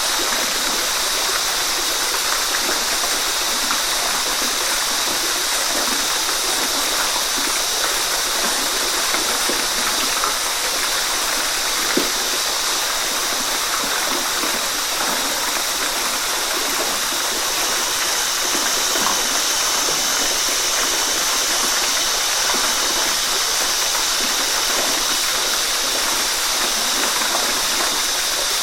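Waterfall rushing: a steady, even roar of falling water, with a small splash-like click about midway.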